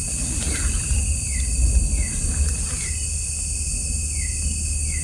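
Night-time forest insect chorus of crickets: a steady high-pitched trill, with a short falling chirp repeating about every three-quarters of a second. A low rumble runs underneath.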